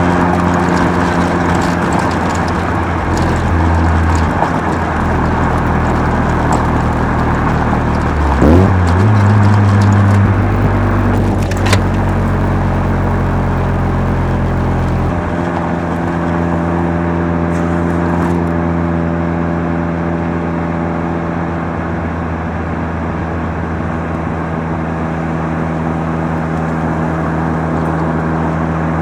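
Mazda RX-7 FC3S's two-rotor 13B rotary engine running through a Knight Sports Legal Sports muffler while driving at a fairly steady pace, its note shifting in steps a few times. About eight and a half seconds in there is a brief rise and fall in pitch, and a sharp click near twelve seconds.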